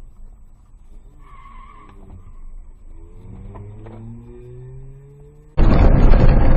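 A car engine accelerating, its note rising steadily in pitch, with a brief high tone about a second in. About five and a half seconds in, a much louder rushing noise cuts in suddenly and dominates the rest.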